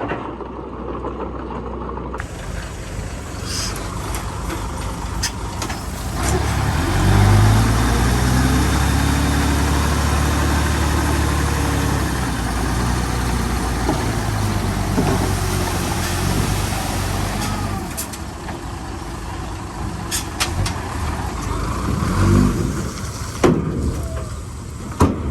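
Diesel engine of heavy earthmoving machinery running, revving up about seven seconds in and easing back down a few seconds later, with another short rev near the end. A few sharp knocks sound over it.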